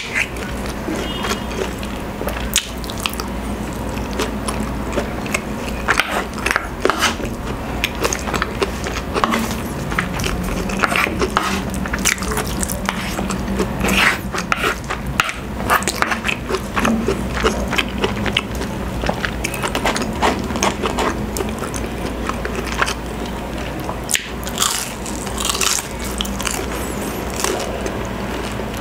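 Close-miked eating: chewing and biting sounds, with many small clicks and scrapes of a wooden spoon and fork against a wooden plate.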